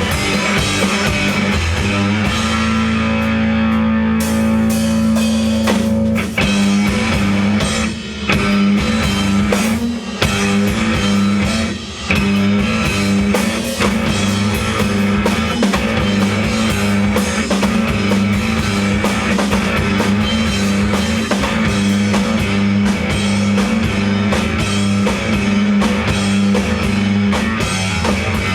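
Rock band playing live: drum kit and guitar with a steady beat, held low notes underneath.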